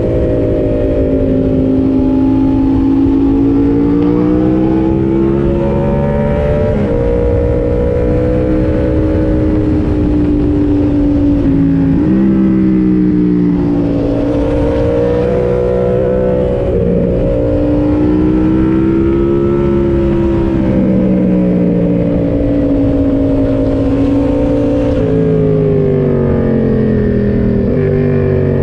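Yamaha MT-07's 689 cc parallel-twin engine running under way, heard from the rider's position. Its pitch rises and falls with the throttle, with a few sudden jumps in pitch, over steady road and wind noise.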